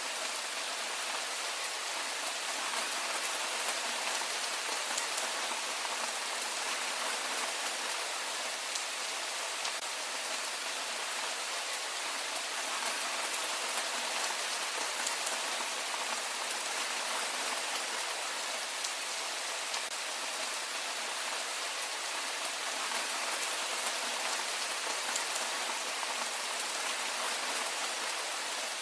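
Heavy rain falling steadily, an even hiss with the odd sharper drop tick and no thunder.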